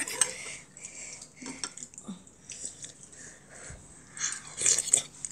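Close-up mouth sounds of a child eating soupy rice from a spoon: small scattered clicks and wet chewing, with a louder run of chewing and slurping sounds about four seconds in.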